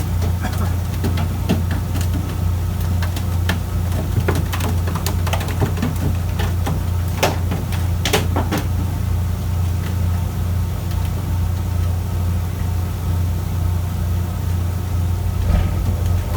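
Fishing boat's engine running steadily with a low hum, with scattered clicks and knocks, thickest in the middle.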